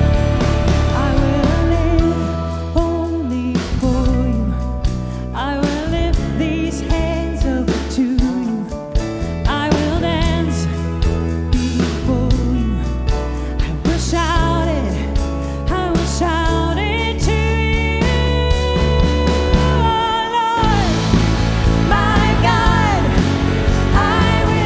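Live worship band playing a song with bass, guitar, steady drums and a singer's voice or melodic lead line. The bass drops out briefly about twenty seconds in.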